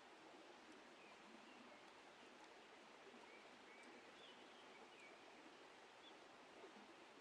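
Near silence: faint outdoor background hiss, with a few faint, high, short chirps and the odd faint tick.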